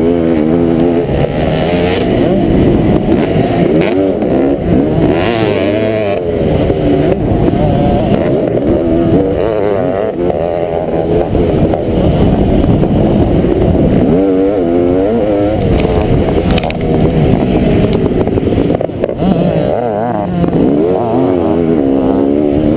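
Kawasaki KX500 two-stroke single-cylinder motocross engine running hard, its pitch rising and falling again and again as the throttle is opened and shut.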